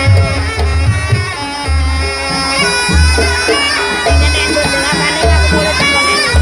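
Jaranan Buto accompaniment from a live traditional ensemble: a slompret, a reedy shawm, plays a wavering melody over a deep drum or gong beat that comes about once a second.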